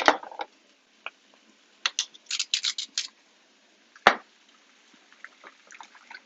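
Seasoning being added to a bowl of egg mixture: a quick run of short scratchy clicks, then one sharp knock about four seconds in.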